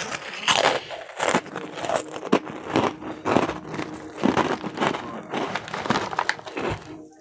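Close-up chewing and crunching of a mouthful of crunchy Slim Jim Fire Fries snack sticks, an irregular run of crunches several times a second, picked up by a clip-on microphone, with the foil snack bag crinkling in the hand.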